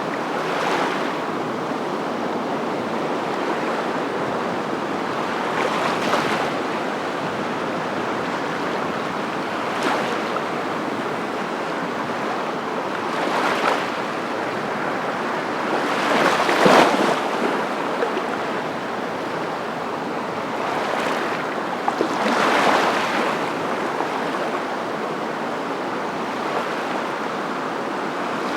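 A steady rushing noise that swells and fades every few seconds, with the loudest swells about two-thirds of the way through.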